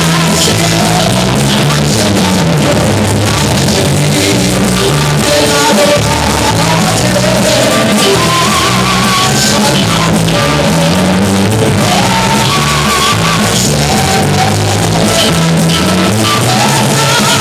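Loud live music with singing, bass and drums.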